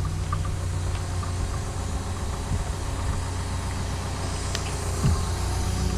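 Cat 314E excavator's diesel engine running steadily while it works, with a few faint clicks and a brief low swell about five seconds in.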